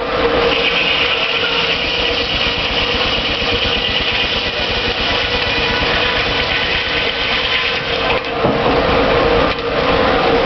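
Sawmill running, a loud steady mechanical noise with a constant hum; a brighter, higher hiss comes in about half a second in and eases off near the end.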